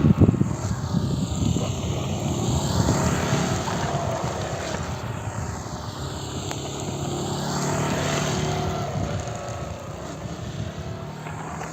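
Motorcycle engine running as the bike circles the track, its sound swelling and fading twice as it comes past, with a steady wash of heavy rain on the microphone and crackling buffeting at the start.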